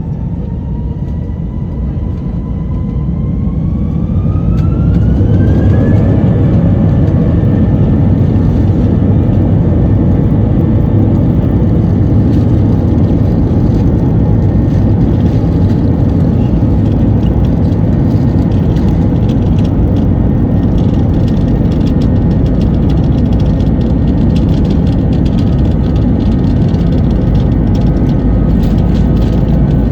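Airbus A320-232's IAE V2500 turbofan engines spooling up to full TOGA takeoff thrust, heard inside the cabin. A whine rises in pitch as the noise builds over the first few seconds, then the engines run steady and loud at full power with a deep rumble.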